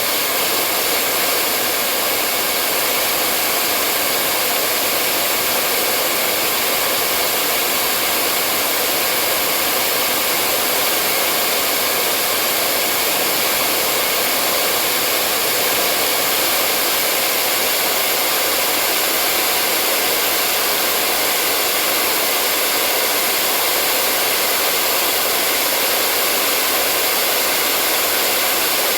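Hair dryer blowing steadily, an even airy hiss with a faint motor hum that does not change.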